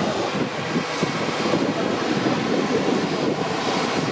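Steady rushing noise of a jet airliner's engines heard from the airport's control tower.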